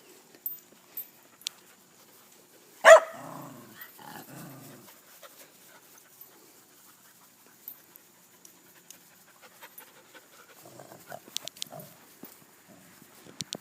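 Dogs at play: one loud, sharp bark about three seconds in, followed by two short, low vocal sounds. Light scuffling and clicks come and go through the rest.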